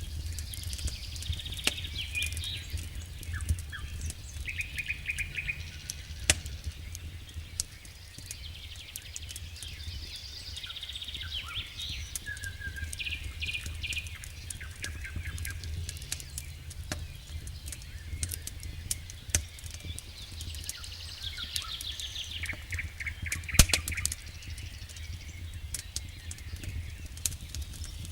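Wood fire in a fireplace crackling with frequent sharp pops over a low steady rumble, one loud pop near the end. Small songbirds sing repeated trilled, chirping phrases throughout.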